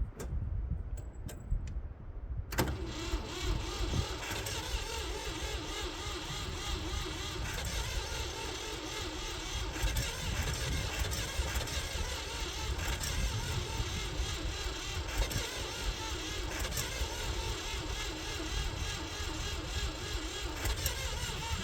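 A few light clicks, then the Ford 3400's three-cylinder gasoline engine cranking over on its starter for about nineteen seconds at a steady pace without catching, and stopping abruptly near the end: a cold no-start.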